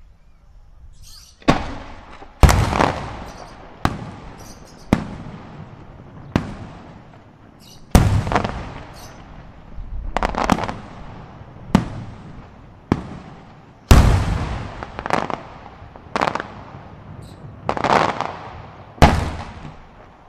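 Aerial firework shells bursting overhead, mostly sharp salute bangs with echoing rumbles, about fifteen reports coming irregularly a second or so apart after a quiet first second and a half.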